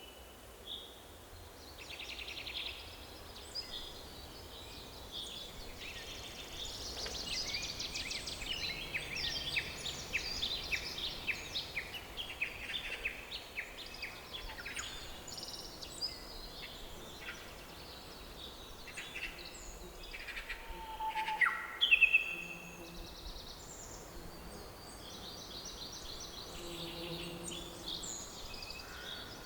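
Several songbirds singing and chirping over a faint steady background hiss, with rapid trills in the first half. The loudest call, a quick downward-sweeping note, comes about three quarters of the way through.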